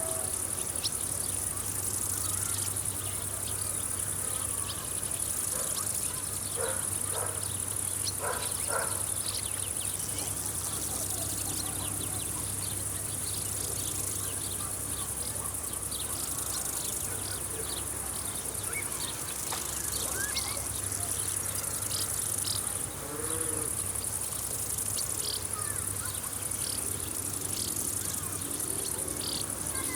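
Crickets and other field insects chirring in a steady high pitch that swells and fades in waves, with many short scattered chirps and a low steady hum underneath.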